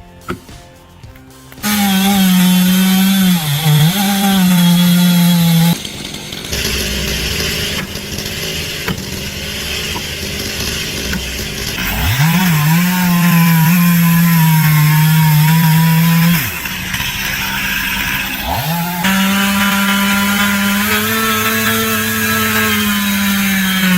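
Chainsaw engine running at full throttle in three long stretches. Its pitch dips and climbs back as it revs, and it drops back between stretches.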